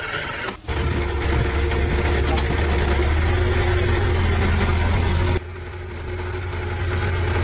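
An engine running steadily with a deep hum. It cuts in suddenly, drops in level abruptly about five seconds in, then slowly builds again.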